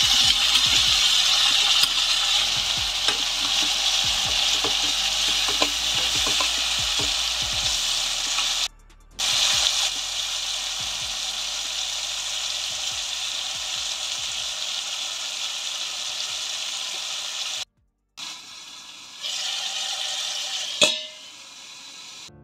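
Chopped tomatoes and onions sizzling in hot oil in a kadai, with scattered light taps and crackles through the first several seconds. The sizzle grows quieter in the second half and cuts out briefly twice, and a single sharp metallic clink comes near the end as a steel lid goes on the pan.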